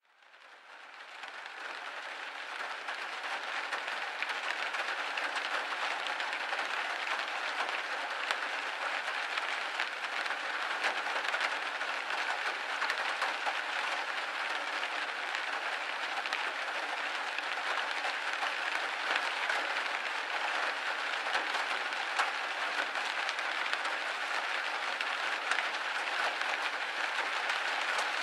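Steady rain pattering on window glass: a dense hiss of countless small drop ticks. It fades in from silence over the first few seconds, then holds steady.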